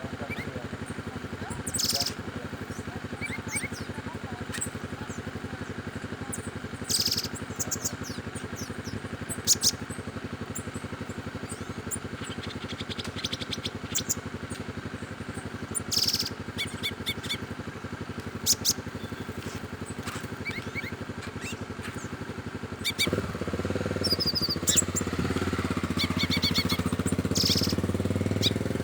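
Wild forest birds giving short, high chirps and trills at intervals, over a steady low hum. Near the end a louder low drone joins in.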